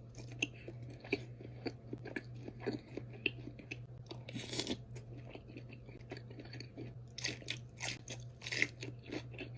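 Close-miked eating of a seafood boil: irregular wet chewing, smacking and crunching in quick short clicks, over a steady low hum.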